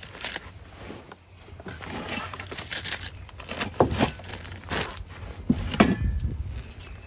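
Irregular crinkling and scraping handling noises with several sharp knocks, the loudest about four and six seconds in.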